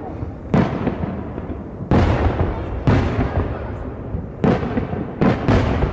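Aerial fireworks shells bursting: about six booms, two of them close together near the end, each trailing off in a rolling rumble.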